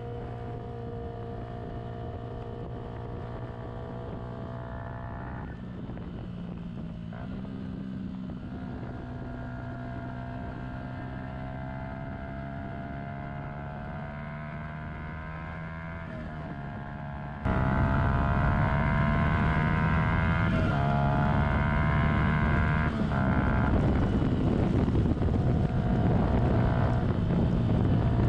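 Single-cylinder four-stroke engine of a 2015 Yamaha YZF-R125 under way, its pitch rising and falling with changes in revs and gear. About two-thirds of the way through it becomes abruptly louder, with more wind rush.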